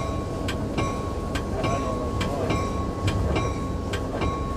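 EMD F59PH diesel locomotive running along the track, heard from its cab: a steady low rumble with regular paired clicks of the wheels passing over rail joints, and a faint steady whine.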